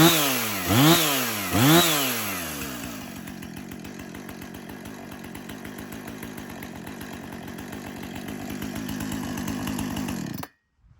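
Two-stroke chainsaw engine revved in three quick throttle blips, its pitch rising and falling each time. It then settles into a steady idle and cuts off suddenly near the end.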